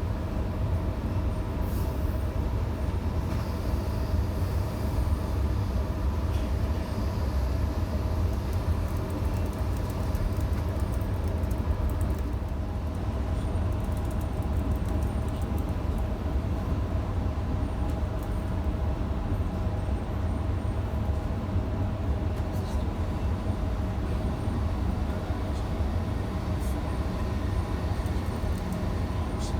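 Electric passenger train running between stations, heard from inside the carriage: a steady low rumble with a faint, even hum of motor tones over it.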